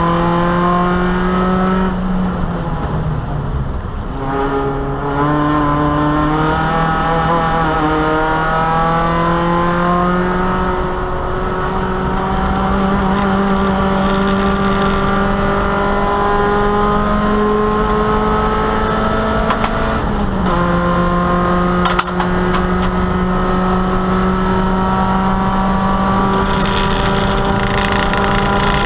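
Opel Kadett E race car's four-cylinder engine heard from inside the stripped cabin, accelerating hard with its pitch climbing slowly. The pitch drops at upshifts about two seconds in and again about twenty seconds in.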